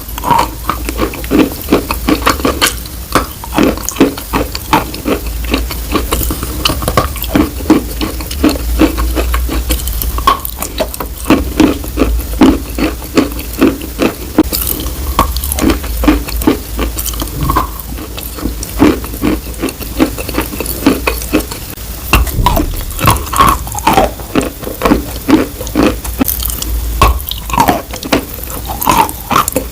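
Dense, irregular wet clicking and crackling, several small sounds a second with short squeaky blips, over a steady low hum: close-up ASMR handling sounds, like something being stirred.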